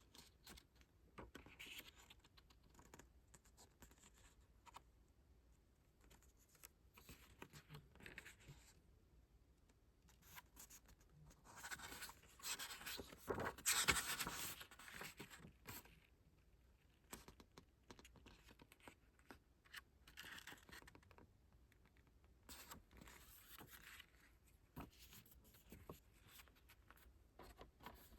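Hands handling album packaging, with faint paper and plastic rustling, scratching and small clicks. A louder rustle comes about halfway through.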